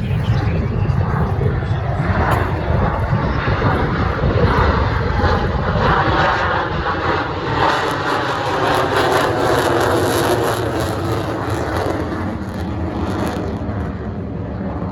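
Military fighter jet flying past: a loud, continuous jet roar with a sweeping, phasing quality through the middle, easing off near the end.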